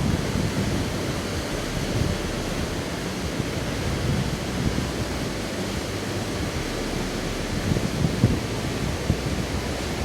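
Steady rushing noise of a waterfall, with wind gusting and buffeting on the microphone.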